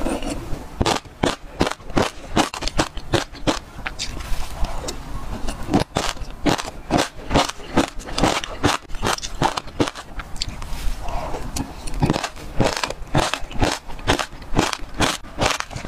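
Close-up crunching of passion fruit seeds being chewed: quick, irregular crackling bites, about two to three a second.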